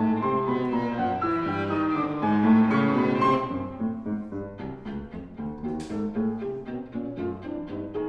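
Viola and piano playing live chamber music: a busy passage of sustained, overlapping notes gives way about halfway through to short, detached repeated notes at roughly three a second.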